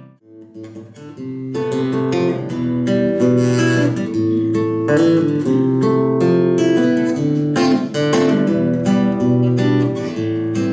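Acoustic guitar playing an instrumental introduction without voice, picked notes with some strumming. It comes in after a brief break at the very start and fills out within a couple of seconds.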